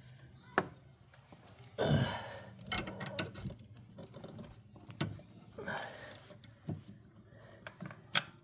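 Scattered light clicks and clinks of hand tools and parts being handled, with two short rustling noises, one about two seconds in and one near six seconds.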